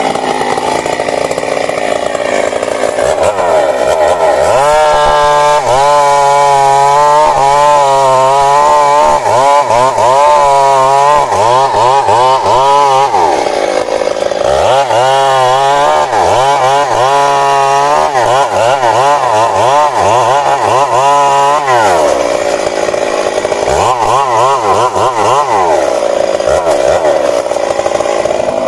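Stihl MS 382 two-stroke chainsaw at high revs, cutting into a large tree trunk. The engine comes in loud right at the start, and its pitch wavers up and down as it labours in the cut, with short steadier spells between.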